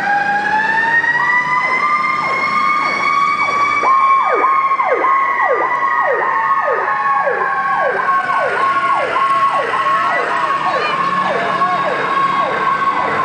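Fire truck sirens going together: one slow wail that rises over the first few seconds and then falls off gradually, and a second cycling rapidly in sharp falling sweeps, about two a second.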